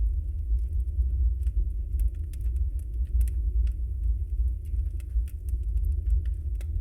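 Wood fire burning in a fireplace: a deep, steady rumble of flames with frequent irregular sharp crackles and pops from the logs.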